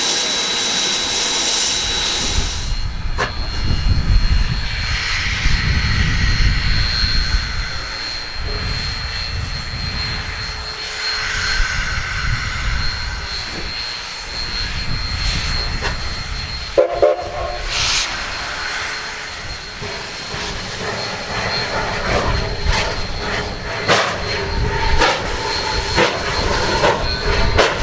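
Narrow-gauge steam train running on the rails, with a low rumble and clanking and clicking of wheels and cars. A short pitched tone sounds a little past the middle.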